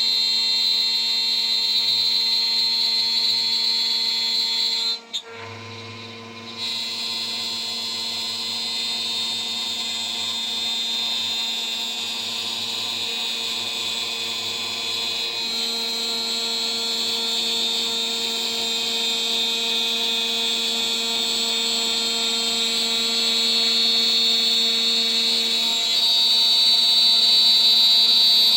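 CNC spindle turning a 3 mm three-flute end mill at about 14,000 RPM, steadily milling. About five seconds in, the cutting noise drops out for a second or so while the spindle keeps running, then the cut resumes and grows louder near the end.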